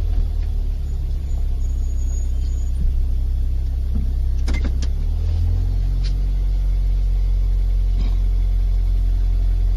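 A car driving, with a strong, steady low drone of engine and road noise and a few light clicks about halfway through.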